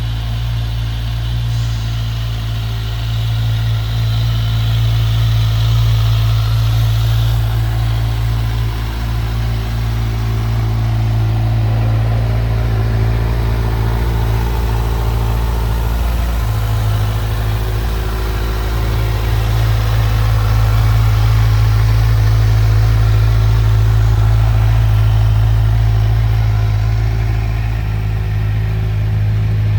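Kawasaki Z1000SX inline-four motorcycle engine idling steadily, with only slight shifts in pitch.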